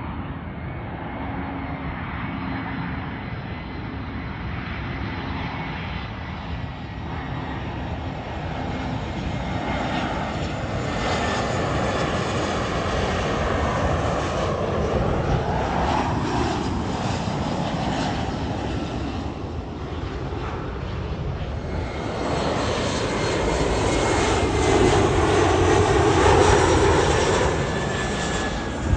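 Jet airliner engines passing, a steady rushing roar with a thin whine that swells, eases, and swells again to its loudest near the end as the whine falls in pitch.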